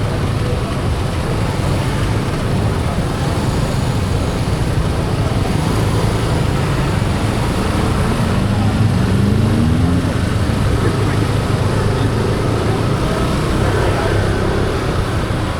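Motor scooter ridden along a road, heard from the handlebars: a steady engine drone mixed with road noise and wind. About eight seconds in, an engine note rises in pitch for a couple of seconds as a vehicle accelerates.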